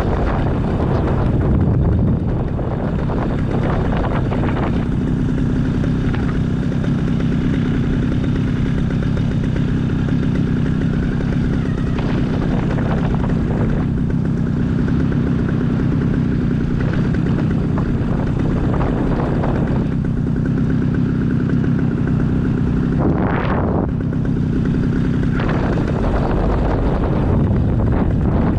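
Light aircraft engine running steadily at reduced power, kept turning through a simulated engine-out glide. Brief rushes of wind noise come now and then, the strongest about 23 seconds in.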